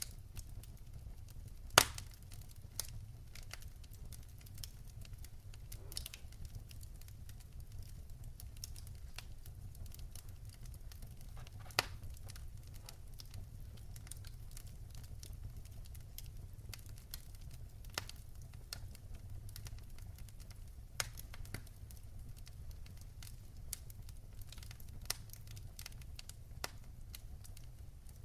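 Fire burning in a fireplace: a steady low rumble with scattered sharp crackles and pops, the loudest pop about two seconds in and another near twelve seconds.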